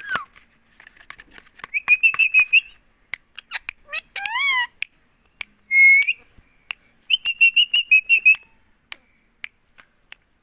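Pet Indian ringneck parakeet vocalising: fast chattering trills of high repeated notes twice, a wavering whistle that bends up and down, and a short loud call about six seconds in, with sharp clicks scattered throughout.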